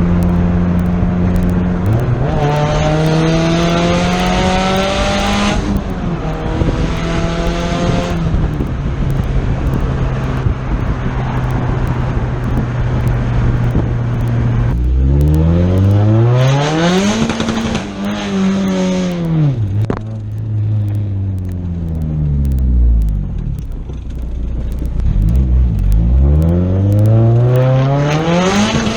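Turbocharged Honda F22B four-cylinder engine on a test drive, accelerating hard several times with the pitch climbing steeply, between stretches of steady cruising and the revs falling away.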